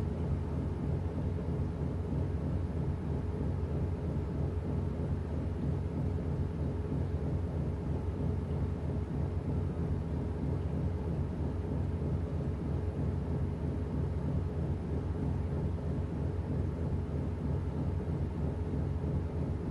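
Washing machine running mid-cycle: a steady low hum with no breaks or changes.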